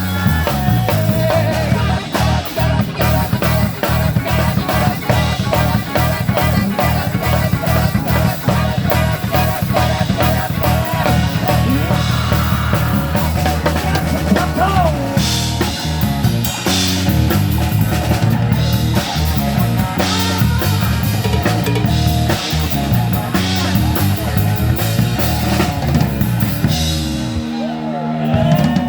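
Live rock band playing an instrumental passage: drum kit and guitar over a steady bass line. The bass drops out near the end.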